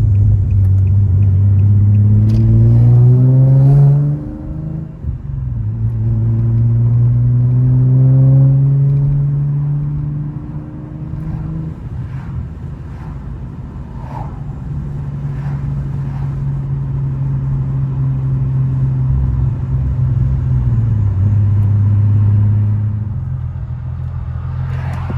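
Car engine accelerating through the gears: the pitch climbs for about four seconds, drops at a shift, climbs again until about halfway through, then settles into a steady cruise.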